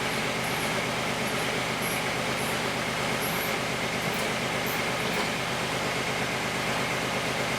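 Backhoe's engine running steadily to drive its hydraulics while a stuck cylinder is being pushed apart, with a faint steady high whine over the engine noise.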